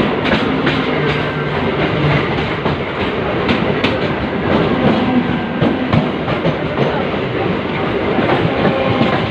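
Passenger train running along the track: a loud, steady rumble with irregular clicks of the wheels passing over rail joints.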